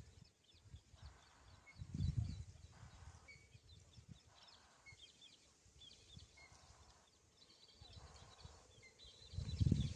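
Birds chirping in many short, high calls scattered throughout, with low rumbles about two seconds in and again near the end.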